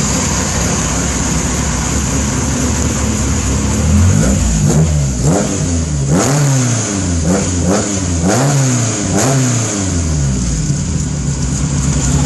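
Mk1 Ford Escort engine idling, then blipped about six times in quick succession, each rev rising and falling back within a second, before settling back to a steady idle near the end.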